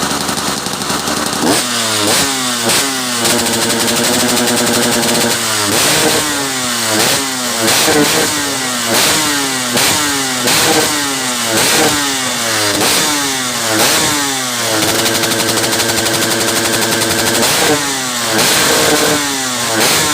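Two-stroke motorcycle engine revved in quick repeated throttle blips, the revs rising and falling about once every second or less. Twice it is held at high revs for a couple of seconds.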